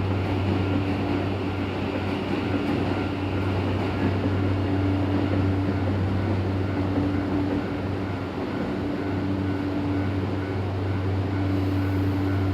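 Toei 5500 series electric train standing at the platform, its equipment giving a steady hum with a higher tone that fades in and out.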